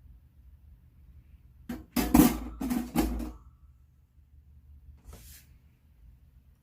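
A quick cluster of knocks and rustling, something handled and set down, lasting about a second and a half from about two seconds in, then one faint rustle near the end.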